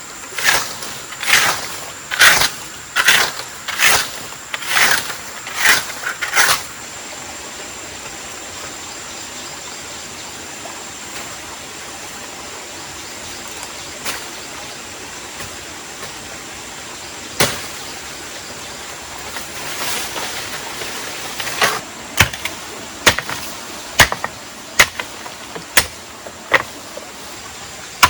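Repeated chopping, a blade striking wood in a quick series of sharp blows. The chopping stops for about ten seconds, leaving a faint steady hiss, then resumes at about one blow a second.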